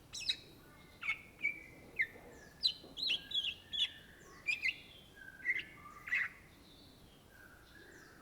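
Greater green leafbird (cucak ijo) singing: a quick run of short, sharp whistled and chirped notes, many sliding up or down in pitch. The song thins out to a few faint notes about six seconds in.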